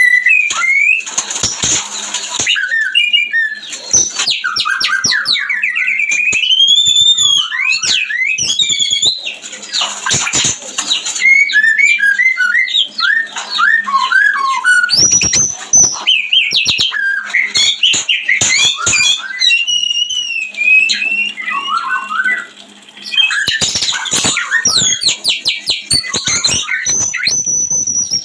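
White-rumped shama (murai batu) in breeding condition singing a loud, varied song of quick whistled glides and trills, broken by bursts of harsh rattling calls near the start and again near the end. This is the mating song used as a lure to set caged birds off.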